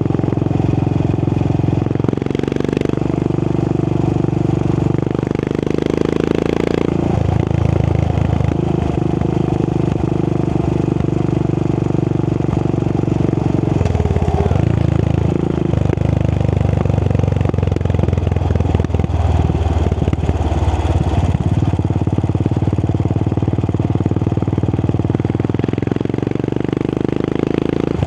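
Royal Enfield Continental GT 535's 535cc single-cylinder engine running through an aftermarket AEW exhaust while the bike is ridden. The engine note holds steady for stretches and shifts up and down in pitch several times as the revs change.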